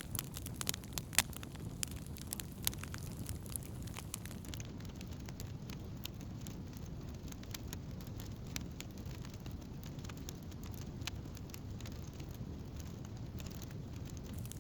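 Wood campfire burning: a steady low rumble of flames with scattered sharp crackles and pops from the burning wood. The pops come thickest in the first few seconds and grow sparser after that.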